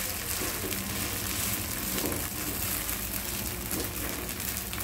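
Vermicelli-and-egg batter sizzling steadily in oil on a hot tawa as it fries.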